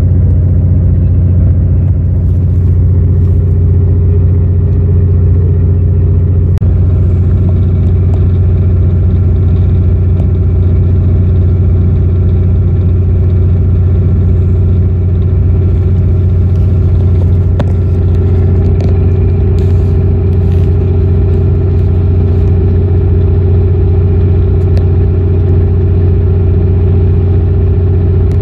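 Running noise of a moving sleeper train heard from inside an ex-JNR passenger carriage: a loud, steady low drone with an engine-like hum that holds one pitch, and a few faint clicks.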